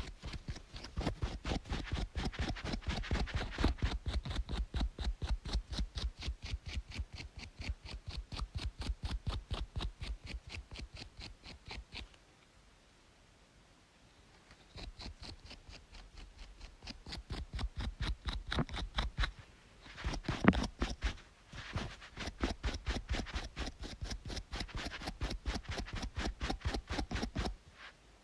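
Rapid, rhythmic scratching on a scalp between braids, several strokes a second. It pauses for a couple of seconds near the middle, then resumes and stops shortly before the end.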